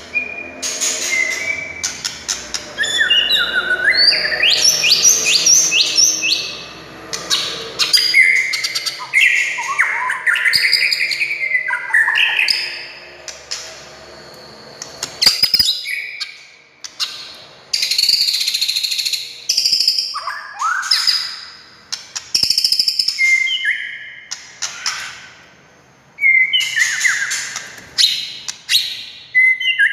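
White-rumped shama (murai batu) singing a loud, varied song of sweeping whistles, rapid trills and sharp clicking notes, delivered in phrases a few seconds long with short pauses between them.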